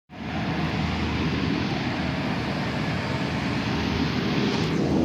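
An airplane's motor running steadily at constant speed, starting at once; its high hiss dims a little near the end.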